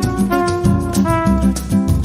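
Trumpet playing a melody of short, quickly changing notes over a jazz-style accompaniment with a bass line.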